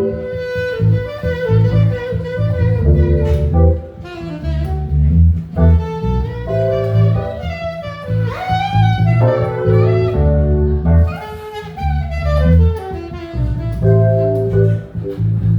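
Jazz-style instrumental jam: a pitched lead line with bending notes over a deep, steady bass line, with a swooping rise and fall about halfway through.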